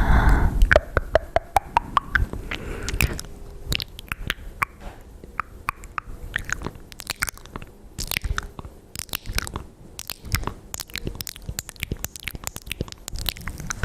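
Close-miked ASMR mouth sounds: a dense run of wet clicks and smacks, with a few tongue pops climbing in pitch in the first two seconds.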